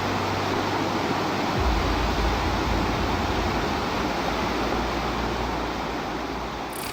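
Rushing floodwater: a steady, dense rush of water, with a low droning note underneath that shifts lower about a second and a half in.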